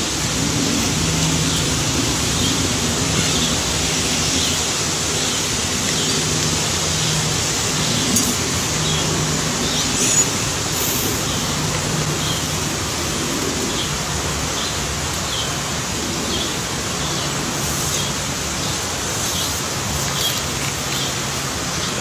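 Short high bird chirps repeating about once a second over a steady outdoor hiss and a faint low hum.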